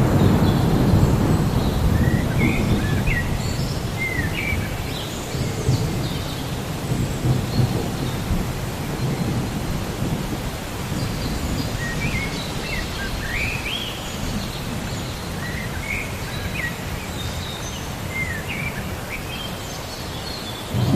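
A roll of thunder that fades slowly over steady rain, with a bird calling in short chirps through it. A fresh rumble of thunder begins at the very end.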